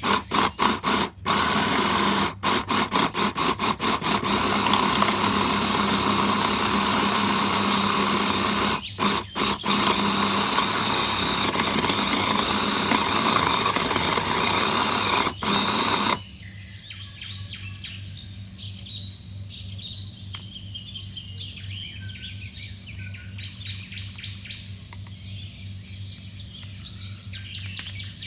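Loud steady whirring noise, stopped and restarted in short pulses in the first few seconds, that cuts off suddenly about sixteen seconds in. After that come faint bird chirps over a low steady hum.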